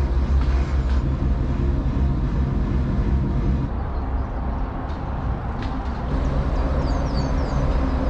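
Dutch barge's inboard engine running steadily at cruising speed, with a few short bird chirps near the end.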